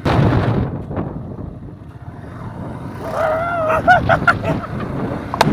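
Wind rushing over the microphone of a moving motorcycle, heaviest in the first second or so, under the road and engine noise of the ride. A short wavering voice-like tone rises and falls about three seconds in, and a sharp click comes near the end.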